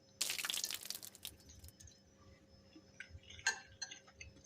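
A person slurping a mouthful of noodles for about a second, followed by quiet chewing and small faint clicks of a fork against the bowl.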